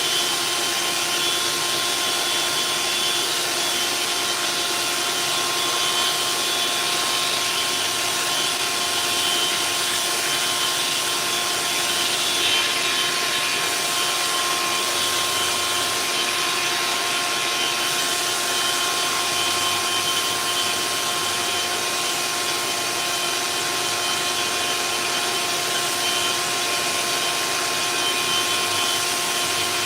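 Dual-mode orbital sander running steadily against cured epoxy fairing compound on a steel hull: a constant motor whine over a sanding hiss.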